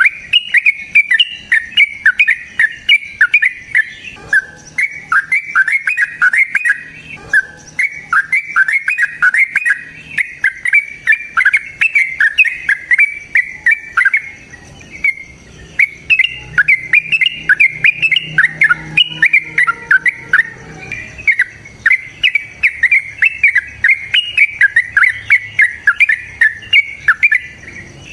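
A single bird singing a long, rapid, chattering song of quick, sharp notes, with only a few brief breaks.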